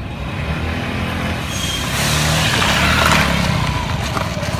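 A motor vehicle engine running steadily, with a rush of noise that builds about two seconds in and eases off a second or so later.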